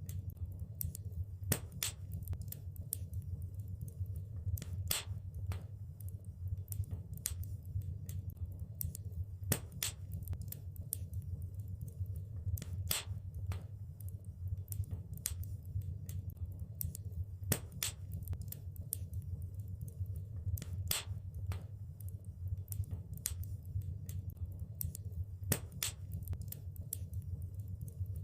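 Wood fire crackling, with irregular sharp pops and snaps over a steady low rumble of the burning fire.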